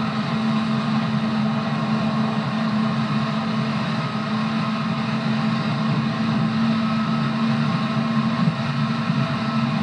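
Running sound of a JR 211 series electric train at steady speed: an even, low drone with a faint steady whine above it and rail noise, holding level without speeding up or slowing down.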